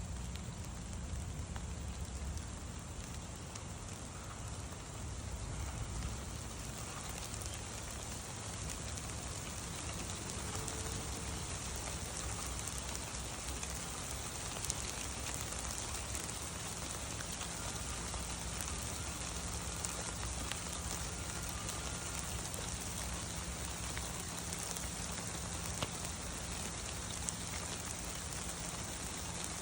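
Steady rain falling, a continuous hiss with fine pattering drops and an occasional louder drip.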